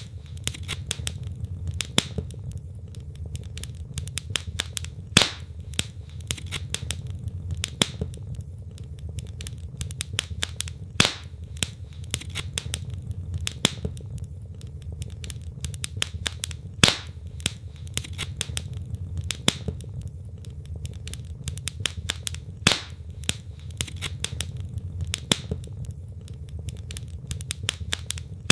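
Wood fire burning in a fireplace: logs crackling steadily over a low rumble of flame, with louder sharp pops every two to three seconds.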